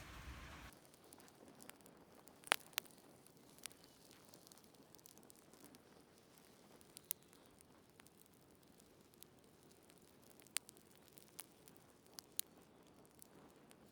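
Homemade alcohol fireplace, 70% alcohol burning in a tin can, just lit: a soft rushing noise that cuts off within the first second, then faint scattered crackles and ticks, the loudest about two and a half seconds in.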